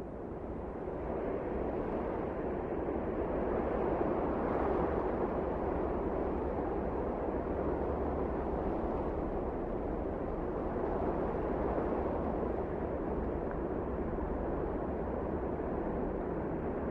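Wind blowing as a steady, deep rush that swells over the first few seconds and then holds.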